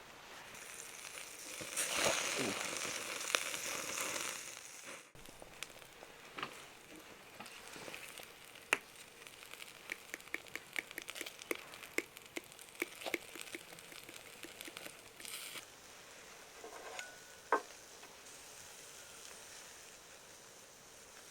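Meat sizzling on a charcoal shichirin grill. A loud hiss runs for about three seconds, then settles into scattered pops and crackles of spitting fat.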